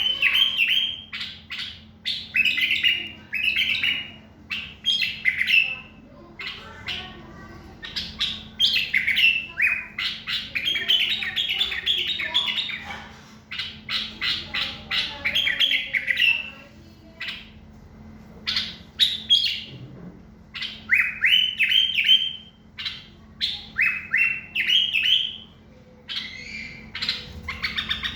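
Bulbul singing: phrases of quick, clear repeated notes, each lasting a second or two, broken by short pauses.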